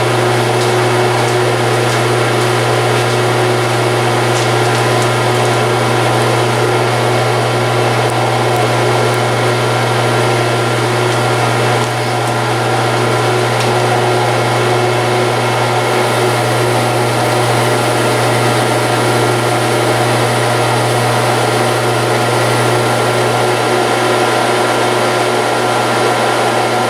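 Metal lathe running steadily under power: a constant motor hum with a few steady whining tones above it, cutting off suddenly near the end.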